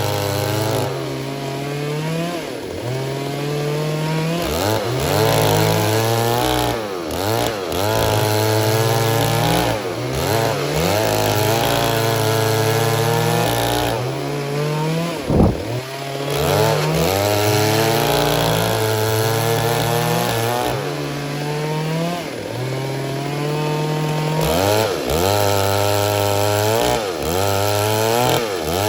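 Stihl MS 382 two-stroke chainsaw running at high revs and cutting wood, its engine pitch dipping and recovering again and again as the chain takes the load. About fifteen seconds in, the revs drop sharply and climb straight back.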